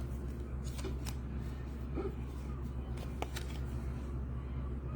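Baseball trading cards being handled and flipped through: light rustles and a few soft clicks over a steady low hum.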